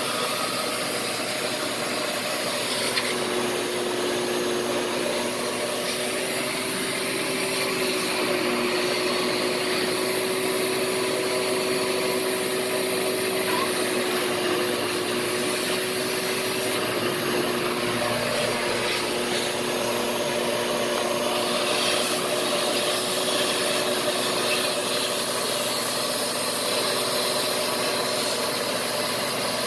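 Shop vacuum running steadily: a constant motor whine over a broad rushing hiss, with the whine's pitch wavering slightly at times.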